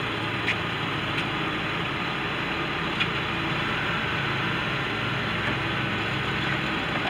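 A Ford Windstar minivan's 3.8 L V6 idling steadily, heard from beside the van, with a few faint clicks in the first three seconds.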